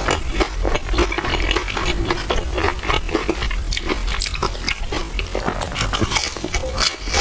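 Close-miked eating of purple rice in milk tea: continuous wet chewing and slurping with many quick sticky clicks.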